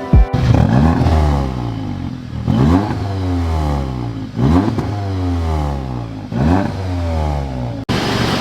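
Audi S3's turbocharged four-cylinder engine accelerating hard, its pitch climbing and falling back about every two seconds. The sound cuts off abruptly near the end.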